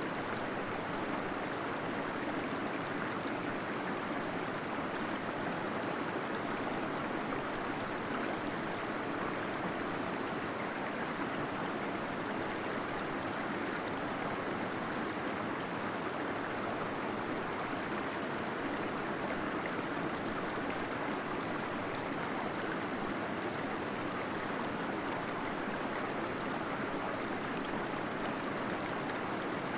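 Small waterfall in a cave, water pouring and gurgling steadily without a break.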